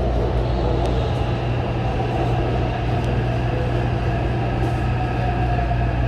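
Taipei Metro train running on the Zhonghe-Xinlu line: a steady rumble of wheels and motors with faint, steady whining tones above it.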